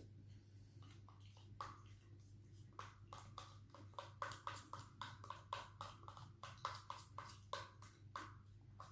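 Close-miked eating sounds: chewing with a quick run of short, sharp clicks and smacks, about three to four a second, starting about a second and a half in. A faint steady low hum lies underneath.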